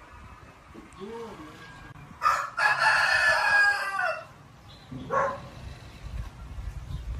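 Rooster crowing once, a drawn-out call of about two seconds starting about two seconds in, followed by a shorter sound near five seconds.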